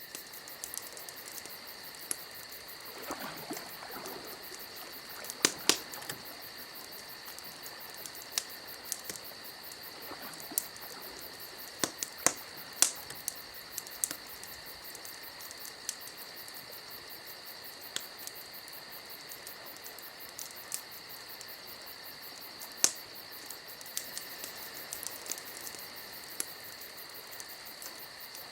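Wood fire crackling, with irregular sharp pops over a steady high-pitched hiss.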